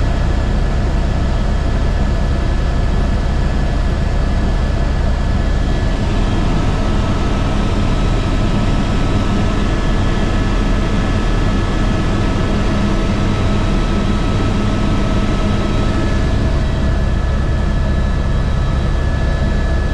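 Airbus H125 helicopter running in flight, its single Arriel turboshaft and rotor giving a steady deep drone with thin, high, steady whine tones over it. One of the whine tones drops out about sixteen seconds in.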